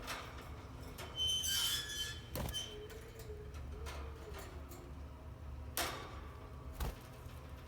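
Frightened cage birds giving a quick run of short, high squeaky calls about a second in, with a few sharp knocks around the cage.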